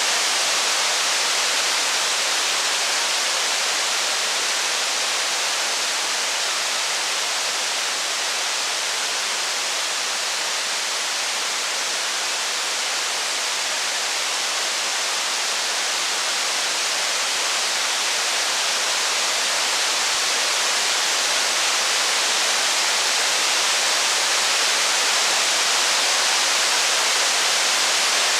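Steady heavy rain, a dense even hiss with no single drops, crackles or thunder standing out. It eases slightly partway through and then builds back.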